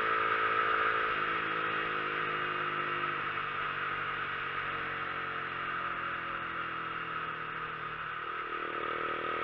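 Motorcycle engine running on the road, its revs slowly dropping for several seconds and then picking up again near the end, over a steady hiss.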